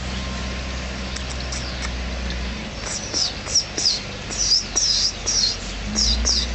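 A quick run of short, high-pitched, falling chirps, about two or three a second, starting about halfway through, over a steady low hum.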